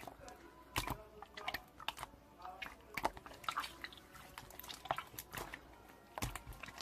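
Slime being squeezed, stretched and poked by hand, giving irregular sticky clicks and small wet pops.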